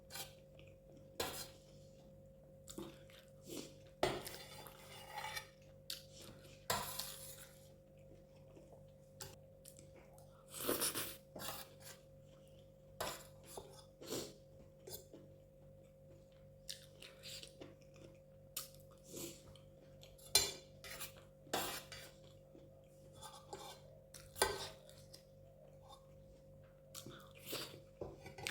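Cutlery clicking and scraping against a plate during close-up eating, many short sharp clinks at uneven intervals with a few longer scraping or slurping bursts, over a faint steady hum.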